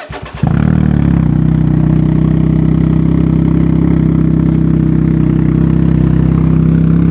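Can-Am Ryker Rally's Rotax 900 three-cylinder engine cranks briefly and catches within about half a second, then idles steadily through an RLS Twin Kaos exhaust with the baffle removed.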